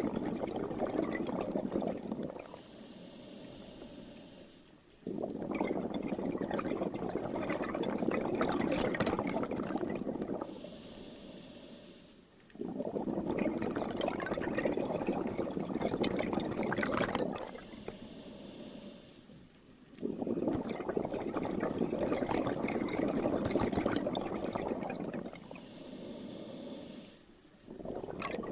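Scuba diver breathing through a regulator underwater: long, loud rushes of exhaled bubbles alternate with shorter hissing inhalations through the regulator, about four slow breaths in all.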